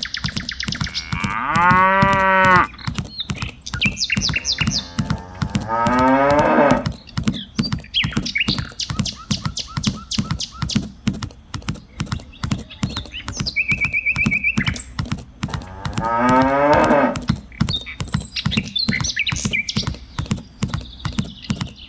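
Cattle mooing three times in long, arching calls, over a steady rapid ticking of about four clicks a second, with short bird chirps in between.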